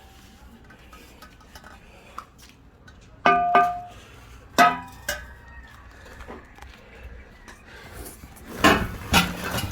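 Metal exhaust pipes knocking together while handled, each knock followed by a brief metallic ring; the loudest ring is a little past three seconds in and a sharp clank follows about a second later. Packaging rustles near the end.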